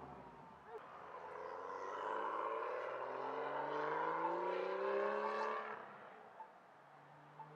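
A car engine accelerating through one long pull. Its pitch rises steadily for about five seconds and then fades away.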